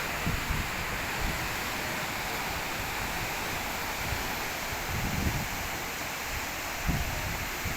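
Steady wash of sea surf on a beach, with wind buffeting the microphone in a few short gusts.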